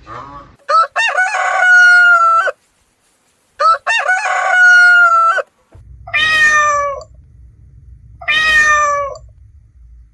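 Rooster crowing twice, each crow a long call rising at the start and then held, followed by two shorter calls that fall in pitch.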